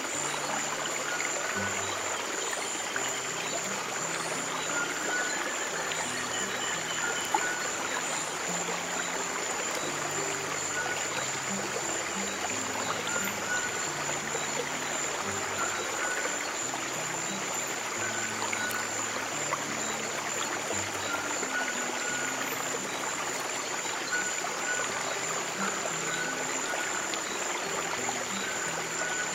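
Flowing stream water, a steady rushing trickle, with soft low sustained music notes changing slowly underneath. A thin constant high tone runs through it, and a few short high chirps come in the first several seconds.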